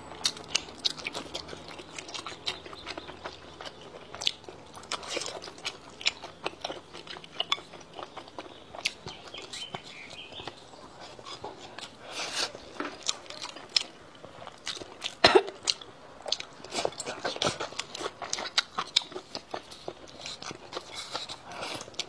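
A person chewing and biting food close to the microphone, with many small, irregular clicks from the mouth, and one sharper click about fifteen seconds in.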